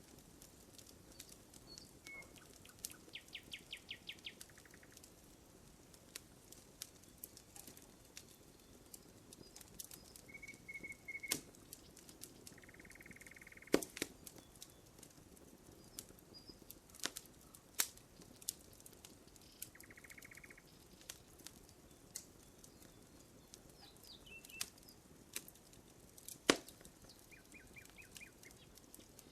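Burning wood crackling, with scattered sharp pops, the two loudest about a third and nine tenths of the way through. Birds call in short trills at intervals.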